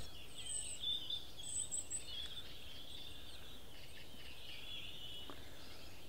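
Faint bird chirps and short calls, clustered in the first two seconds and then on and off until near the end, over a steady low background rumble.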